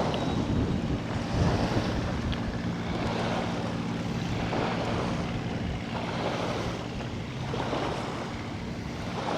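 A motor engine running with a steady low hum, under gusty wind buffeting the microphone.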